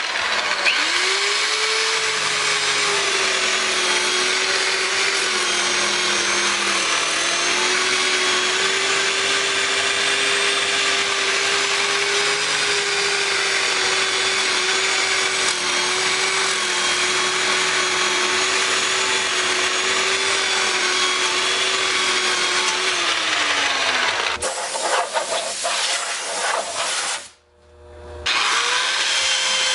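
A handheld power tool running steadily with a dense grinding hiss of abrasive work on aluminium. Its motor pitch sags briefly and picks up again, then winds down. A few seconds of rougher, irregular scraping follow, and the tool stops for about a second before spinning up again near the end.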